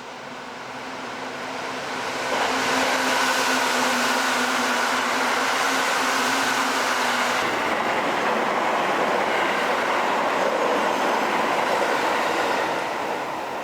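Seibu 10000 series New Red Arrow electric limited-express train running by, its noise building over the first two seconds and then holding steady. A steady hum runs under it and drops away about halfway through.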